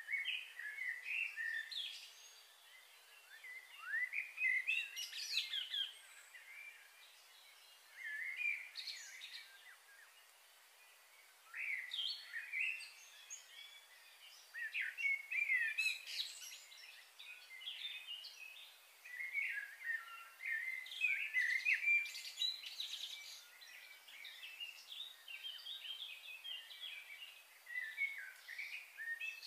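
Birds chirping and calling in bursts of quick high notes that slide up and down, with short lulls between the bursts.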